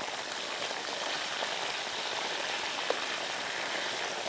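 Sesame-coated breaded kofta frying in hot oil in a pan: a steady crackling sizzle, with a single small click about three seconds in.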